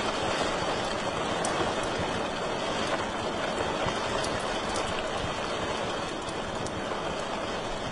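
Wood fire in a fireplace burning with a steady rushing hiss and a scattering of small sharp crackles and pops.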